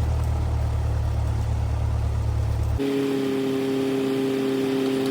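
Cessna 172R's four-cylinder Lycoming engine and propeller running at low power on the ground, a steady drone. About three seconds in, the sound changes abruptly to a higher, steady hum with two pitched tones.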